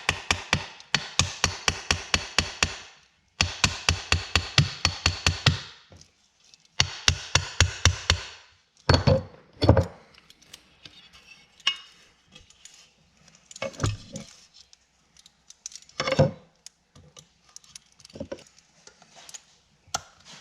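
Hammer tapping on a small drill bit used as a punch to drive the pin out of a truck vent window handle. Three quick runs of light taps, about four to five a second, then several single, heavier knocks a couple of seconds apart.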